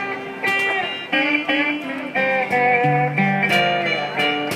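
Instrumental fill in a pre-war acoustic blues: guitar notes ringing between the sung lines, some of them sliding in pitch, over light hand percussion.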